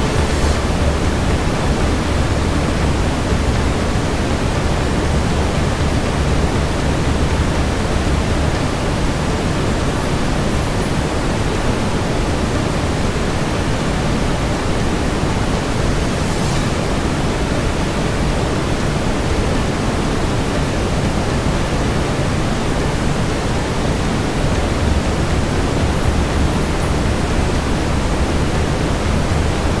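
Steady brown noise, a deep even rush, mixed with fireplace ambience. A few faint crackles from the fire can be heard, one about halfway through.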